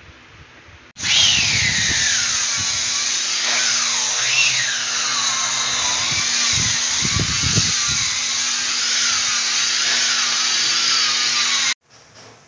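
Hand-held electric power tool running under load on stone, its whine sliding down and rising again as the load changes. It starts abruptly about a second in and stops abruptly near the end.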